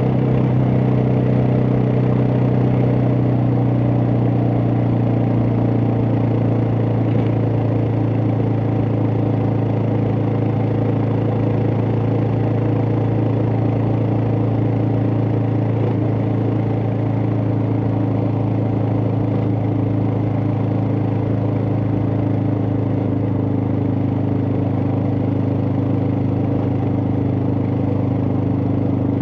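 Suzuki DR650 single-cylinder four-stroke engine running steadily at an even pitch.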